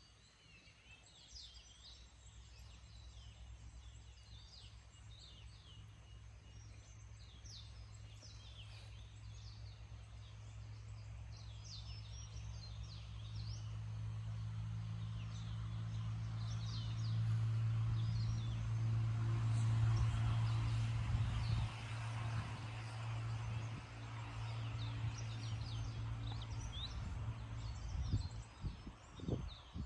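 Birds chirping repeatedly over a low, steady engine hum. The hum grows louder toward a peak about two-thirds of the way through, then drops away near the end.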